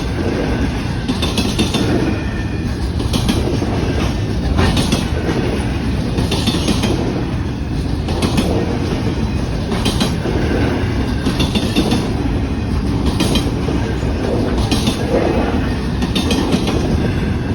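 Pan Am Railways freight train rolling past at close range: a steady low rumble of wheels on rail, with repeated clacks as the wheels cross rail joints.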